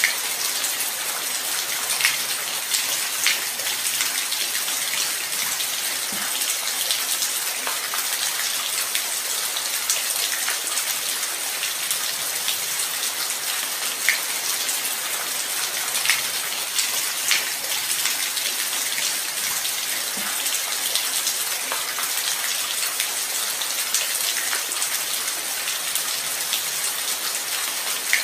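Light rain falling steadily: a dense, even hiss with scattered louder drops ticking here and there.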